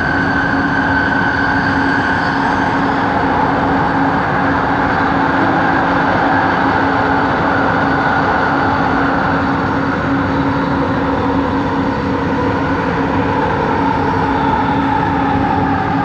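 Light rail train running, heard from inside the car: a steady loud running noise with a constant low hum and a traction motor whine that drifts in pitch, sliding down in the last few seconds.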